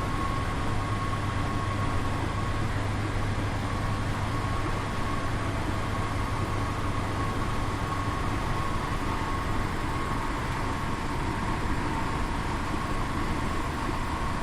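Steady running noise of a 1976 Prevost bus, with a constant low engine hum and a faint steady high whine.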